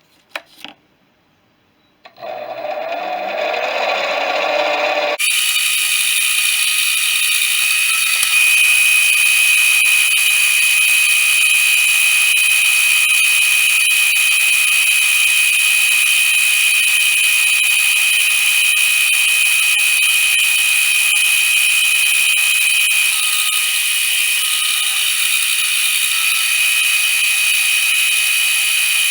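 A couple of clicks, then a metal lathe spins up about two seconds in, rising in pitch. From about five seconds in it runs steadily as it cuts the turned-down hex bar stock, with a strong high-pitched whine.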